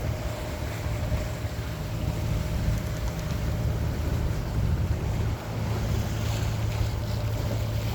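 Wind buffeting the microphone and water rushing along a sailing boat's hull under way, a steady low rumble with a wash of noise over it.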